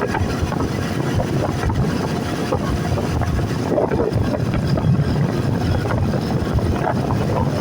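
Steady rumble of a moving vehicle and traffic, with wind buffeting the microphone.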